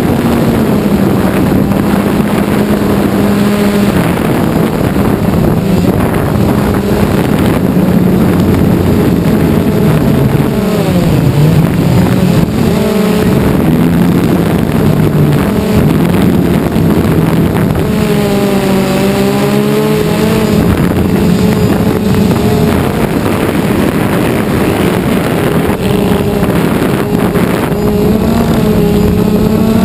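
Quadcopter drone's propellers humming steadily at close range. The pitch dips and climbs about a third of the way in, and wavers again past the middle, as the motors change speed.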